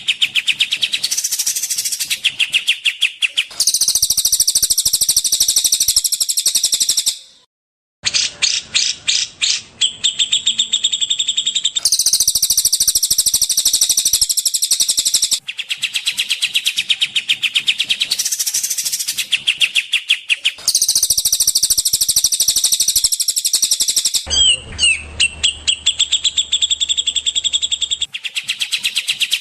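Small songbirds singing fast, high-pitched chattering trills, spliced into a song-tutoring loop, so each block of song cuts off abruptly and another starts every few seconds, with a brief gap near the quarter mark.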